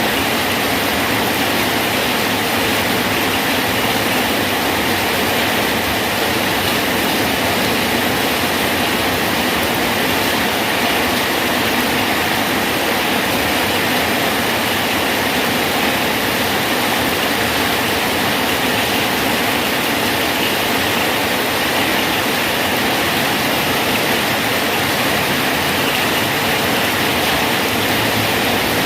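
Rain falling steadily on a bridge: an even, unbroken hiss of drops with no let-up.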